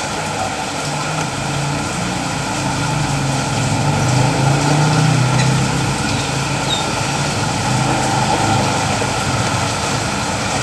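An engine running steadily, a hum that swells a little around the middle, over a constant hiss.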